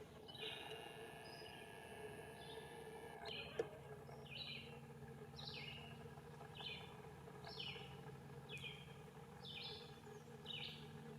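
A bird calling over and over, a short falling chirp about once a second, over a faint steady low hum. A single sharp click about three and a half seconds in.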